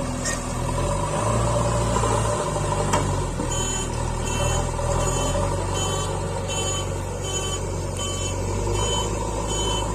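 Diesel engine of heavy earthmoving machinery running steadily. From about three and a half seconds in, a reversing alarm beeps about twice a second.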